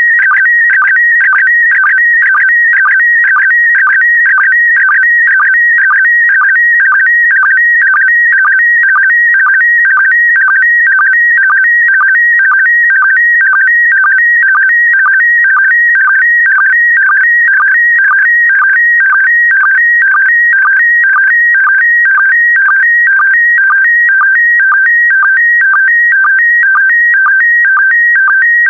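Slow-scan television signal in PD120 mode: a continuous warbling stream of electronic tones between about 1.5 and 2.3 kHz, broken by a repeating pattern about twice a second as each scan-line pair is sent. This is an image being transmitted for a decoder to turn back into a picture.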